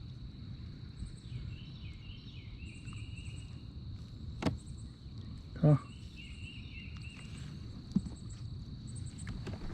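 Outdoor ambience of birds singing and a steady high insect drone. A few knocks break through, the loudest a little before six seconds in.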